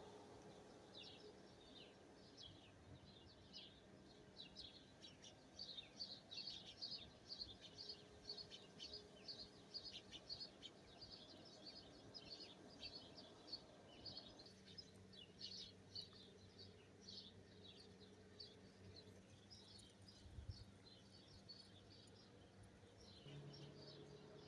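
Small birds chirping: faint, quick chirps in a near-continuous chatter, busiest through the middle.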